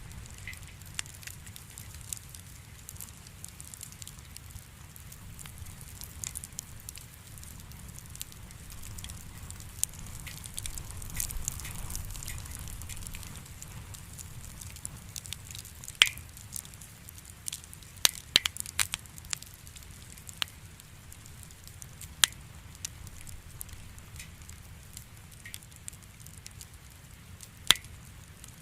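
Wood campfire burning with a soft low rumble and a steady crackle, wood snapping in sharp pops, the loudest cluster near the middle and one more near the end.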